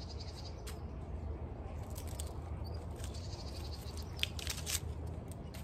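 A small bird trilling in short, fast high-pitched runs, with several sharp clicks of hand pruning shears snipping dahlia stems and leaves, over a steady low hum.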